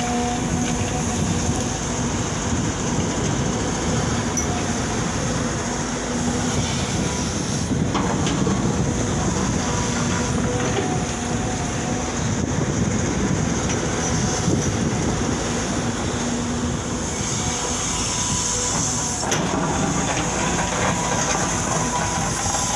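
Excavator diesel engines running steadily at work, a constant heavy machine noise with a droning hum of steady pitch that fades in and out.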